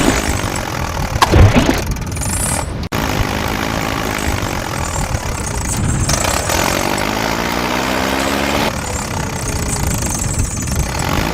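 Truck engine sound running and revving, its pitch rising and falling in several passes, with abrupt cuts between them, one a brief dropout about three seconds in.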